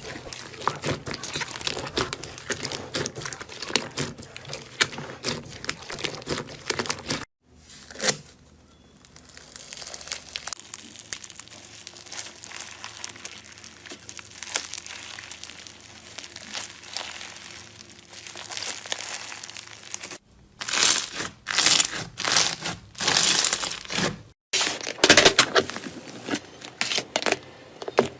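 Slime being handled, crackling and crinkling, over several short clips that cut abruptly from one to the next.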